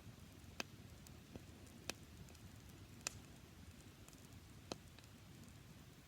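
Dry-grass campfire crackling faintly, with five sharp pops spread irregularly through the few seconds.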